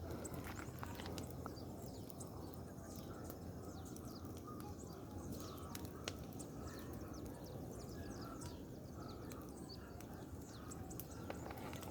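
Large bonfire of dry cut branches burning, with a low steady rush and many faint scattered crackles.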